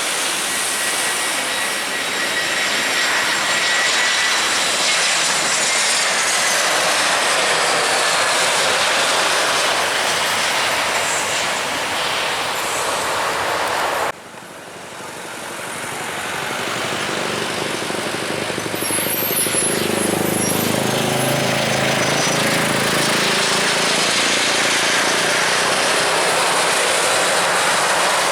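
Jet airliner engines passing loud, their whine gliding down in pitch. About halfway through the sound cuts off abruptly and another jet's engine noise builds up again over several seconds, with a low rumble, then holds steady.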